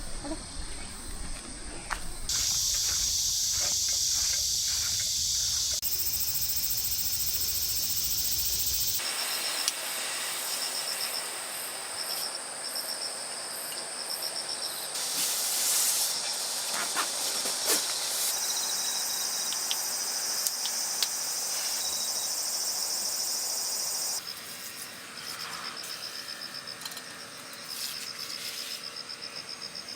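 Summer insects buzzing and chirping in a steady high-pitched drone, the pattern changing abruptly several times as the clips cut. A low rumble sits underneath for the first nine seconds or so.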